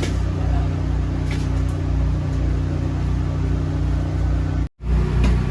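Steady low mechanical hum of running machinery inside a food truck, broken by a brief drop to silence about four and a half seconds in.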